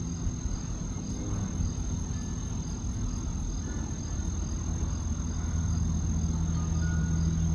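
Outdoor summer ambience: a steady low engine hum, like a vehicle or distant traffic, growing a little louder in the second half, under crickets chirping at a steady pace of about two chirps a second and a constant high insect whine.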